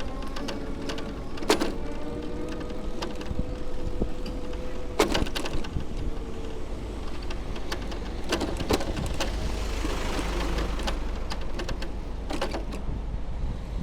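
Street noise heard from a bicycle on wet city streets: a steady hum for the first few seconds, sharp rattles and clicks every few seconds, and a hiss swelling and fading around the middle.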